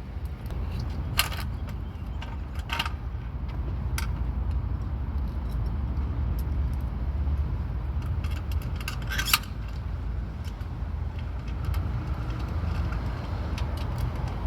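Steady low wind and road rumble from riding a bicycle, with a few sharp metallic clinks and rattles. The loudest clink comes about nine seconds in.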